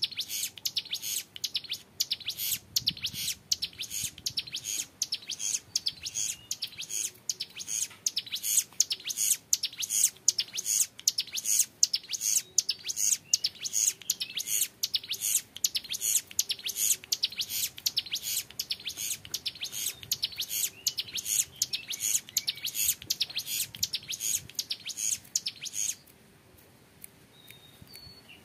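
Young male ciblek gunung, a prinia, singing its 'ngebren' song: a long, unbroken run of rapid high-pitched chattering notes, stopping abruptly about two seconds before the end.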